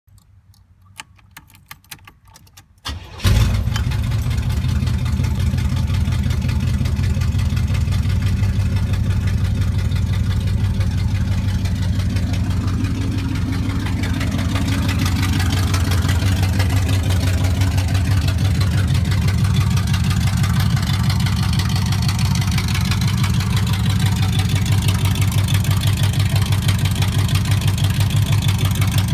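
1986 Chevrolet Monte Carlo SS's V8 cold-started: after a few seconds of small clicks and cranking, it fires about three seconds in and settles into a steady idle with a deep low rumble.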